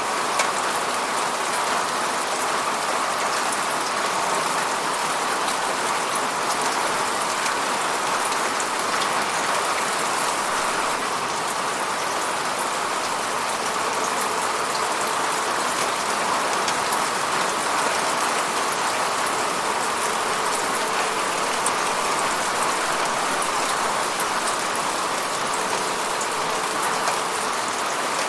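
Steady rain falling, an even hiss of drops on a surface with fine crackling patter in the highs.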